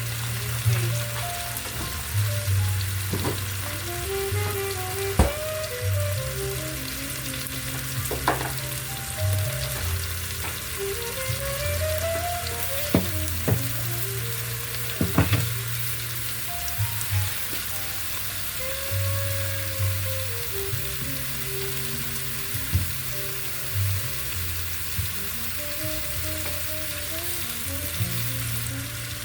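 Butter, oil, white wine and lemon juice sizzling steadily in a frying pan, with a few sharp knocks of things being set down.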